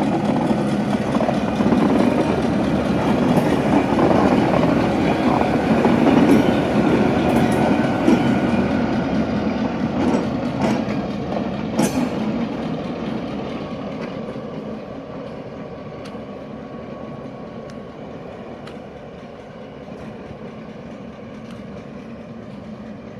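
Heritage train with Victorian Railways K-class steam locomotive K163 at the head and T-class diesel T334 pushing, running by: it grows louder to a peak about six to eight seconds in, with a few sharp clicks around ten to twelve seconds in, then fades steadily as it moves off.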